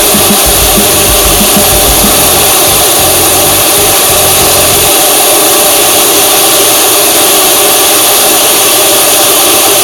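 Steady loud drone of a vehicle on the move, engine and road noise together, with a low rumble that drops away about halfway through.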